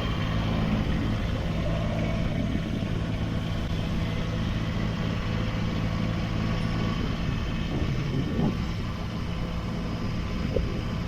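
Kubota BX23S sub-compact tractor's three-cylinder diesel engine running steadily as the tractor is driven a short way, its note growing rougher about eight seconds in, with a couple of short knocks near the end.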